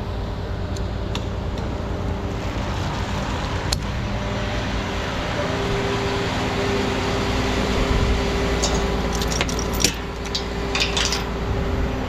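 Vehicle engine running steadily with a constant low hum. Light metallic clinks and rattles come between about 8 and 11 seconds in.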